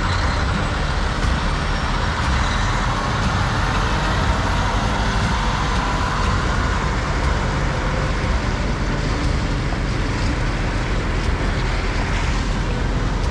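Heavy truck running steadily, a continuous rumble with road noise.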